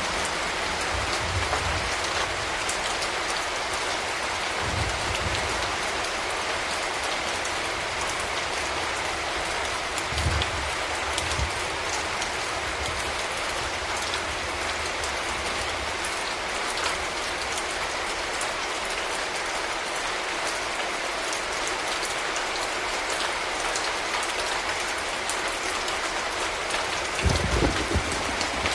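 Steady rain falling, an even hiss, with a few dull low thumps here and there, the strongest cluster near the end.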